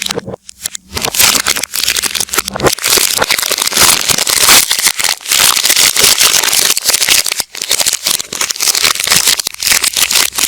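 Soap packaging crinkling and crackling as it is handled and unwrapped, a dense run of quick crackles, played in reverse.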